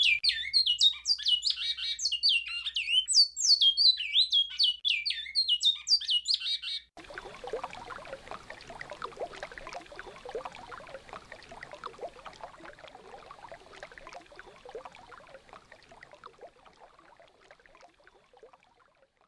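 Great-billed seed-finch (bicudo) singing its alta Mogiana song, a fast run of clear whistled notes sliding down in pitch. About seven seconds in the song stops abruptly and gives way to rushing river water, which fades out near the end.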